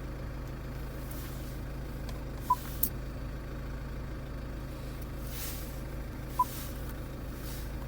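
Steady low hum of a Land Rover Freelander 2's 2.2-litre SD4 diesel engine idling, heard from inside the cabin. A short beep sounds twice, about four seconds apart, with a brief click after the first.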